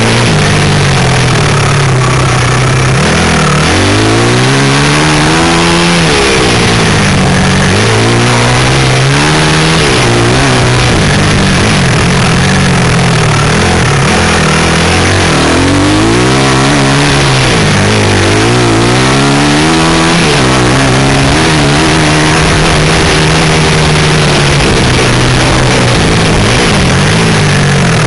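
A 160 cc pit bike's single-cylinder four-stroke engine is being ridden hard, its pitch repeatedly rising under throttle and dropping back every couple of seconds. A steady rushing of wind on the microphone runs under it.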